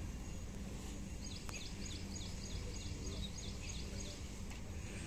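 Outdoor background noise with a low steady hum, and a bird calling a quick run of short, high, falling notes, about four a second, for a few seconds in the middle.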